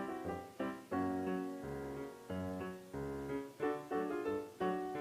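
Background piano music: a light tune of struck notes and chords that ring and fade between strikes.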